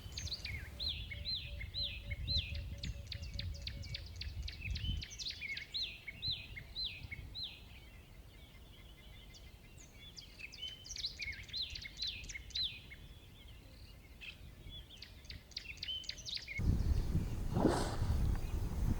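Wild birds calling from the riverbank: a long series of short, quick downward-sweeping chirps, several a second, thinning out after about thirteen seconds. Near the end a louder rush of noise sets in over them.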